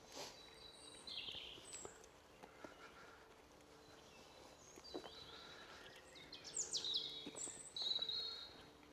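Wild songbirds calling: short, high chirps and quick gliding notes, scattered at first and busiest and loudest in the last two or three seconds, with a few faint clicks underneath.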